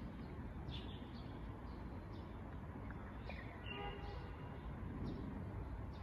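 Short, faint bird chirps every second or so, over a steady low outdoor rumble.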